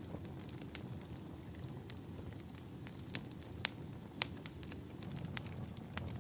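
Crackling fireplace: a steady low rumble of the fire with sharp pops every half second or so, the loudest two about halfway through.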